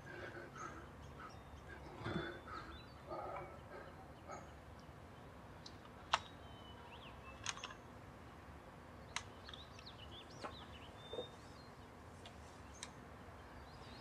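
Faint birdsong: scattered short chirps and brief gliding whistles, with a few sharp chip notes.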